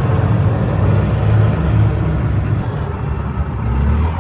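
Old Honda motorcycle engine running steadily, driving a homemade ski tow rope.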